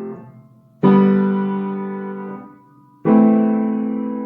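Piano left-hand chords: two separate chords struck about two seconds apart, each held and slowly fading before it is released.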